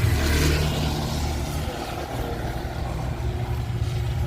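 Motor vehicle engine running at low revs, with a rushing hiss in the first second and a half as something passes.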